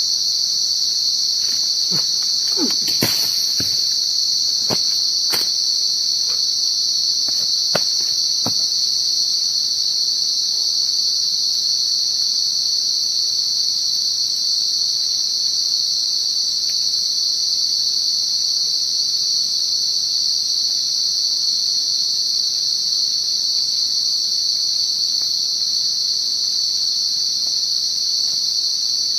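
A steady, high-pitched chorus of night insects such as crickets, droning unbroken. A few short clicks and snaps come in the first several seconds.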